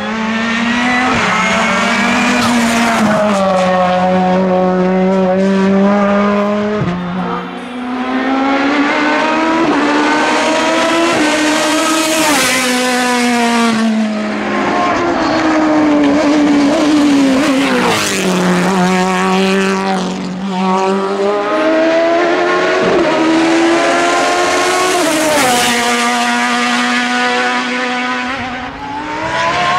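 Hillclimb race car engines at full throttle. The pitch climbs through the gears, drops sharply at each upshift, and falls more slowly as the cars lift off or brake.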